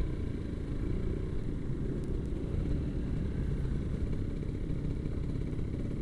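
Kawasaki Ninja RR 150 single-cylinder two-stroke engine running at a steady pace while riding, with a steady low rumble of engine and road noise.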